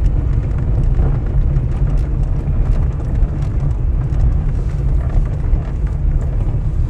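A vehicle driving along, with a steady low road rumble and faint scattered ticks.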